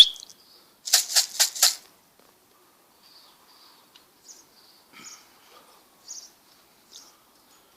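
A sharp loud sound, then four quick swishing strokes in a row about a quarter second apart, followed by faint high chirps of small birds.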